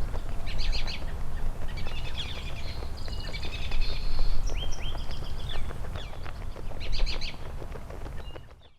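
Small birds chirping and trilling in several short bursts over a steady low rumble, fading out at the end.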